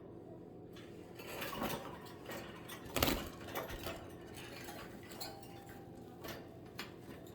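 Scattered light taps, clicks and rustling, with one louder knock about three seconds in.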